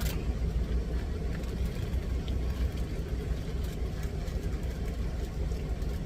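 Steady low rumble of an idling semi-truck engine, heard inside the cab, with a few faint clicks.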